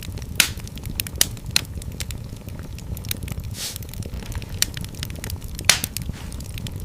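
Wood fire crackling in a fireplace: a steady low rumble of flames under a constant patter of small crackles, with a few louder sharp pops and a brief hiss about three and a half seconds in.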